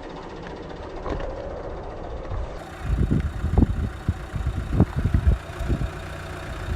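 Car running on the road with a steady low hum, then a run of low thumps and rumbles about halfway through before it settles back to a steady drone.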